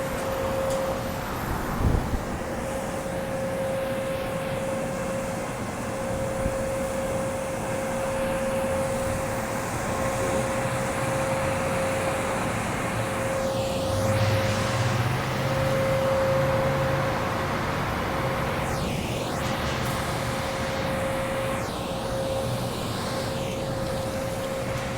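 Steady drone of car wash machinery with a constant mid-pitched whine, and the sound of vehicles moving past, with a lower engine hum about halfway through.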